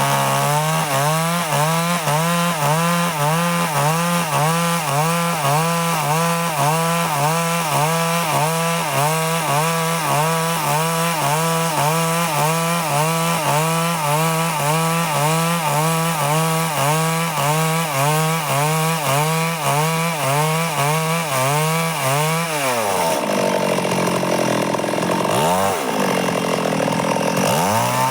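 Stihl chainsaw cutting wood, engine under load, its pitch rising and falling regularly as the bar works through the cut. About 22 seconds in the engine drops off, revs briefly, then comes back up to cutting speed near the end.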